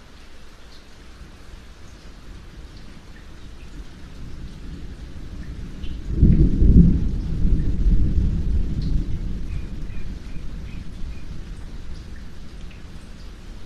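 Steady rain with a roll of thunder: a low rumble builds, breaks into a loud clap about six seconds in, then rolls away slowly under the rain.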